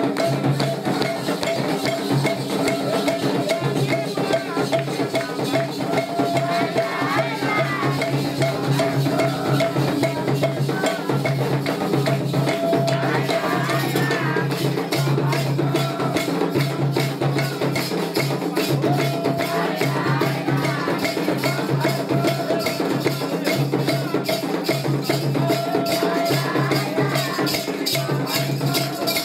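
Candomblé ritual percussion: drums and shaker rattles keeping up a steady, dense rhythm, with voices faintly heard at times.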